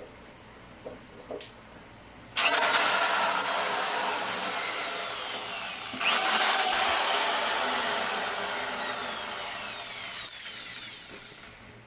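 Electric drill boring in two runs of about four seconds each, the first starting a little over two seconds in, with a whine that falls in pitch through each run.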